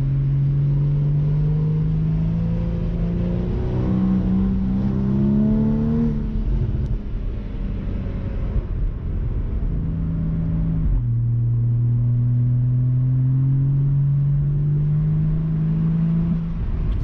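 Porsche Boxster 981's 2.7-litre naturally aspirated flat-six pulling under acceleration, its note climbing and dropping back twice at gear changes, the second drop about eleven seconds in. Heard from the open-top cabin with wind rushing past.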